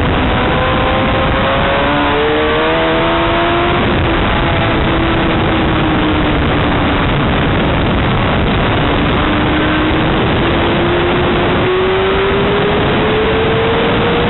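Racing motorcycle engines at speed, their pitch gliding up and down, with two machines overlapping a couple of seconds in and one rising steadily near the end, all under a loud, steady hiss.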